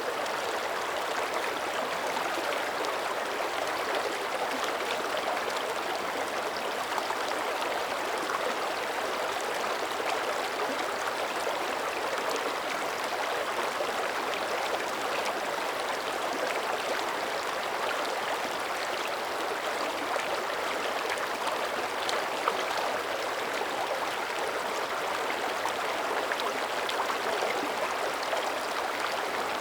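Mountain creek flowing over rocks: a steady rush of running water with fine splashing.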